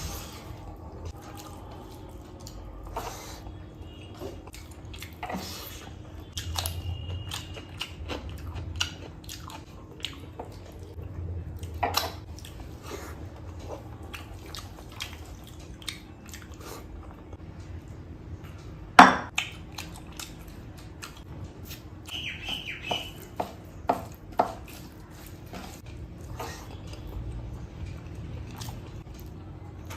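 Eating sounds of chicken curry with rice, close to the microphone: chewing and wet mouth sounds with scattered clicks and taps over a faint steady hum. The loudest is a single sharp knock about two-thirds of the way through.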